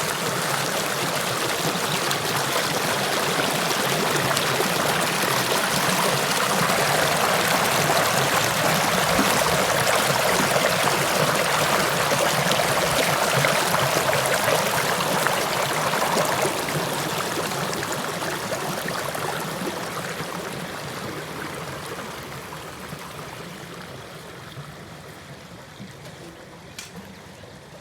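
River water flowing in a steady rush, loudest in the middle and fading away over the last ten seconds or so.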